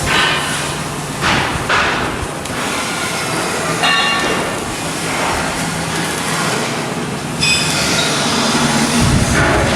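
Steady industrial noise of steel shipbuilding work, with metallic rumbling and clanking, a short squeal about four seconds in and another high metallic tone near the end.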